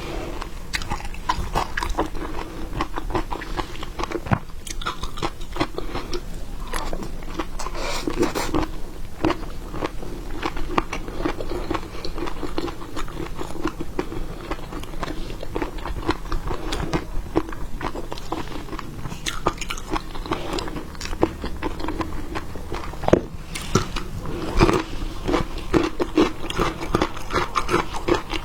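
A person biting and chewing seafood, with many irregular crisp crunching clicks throughout.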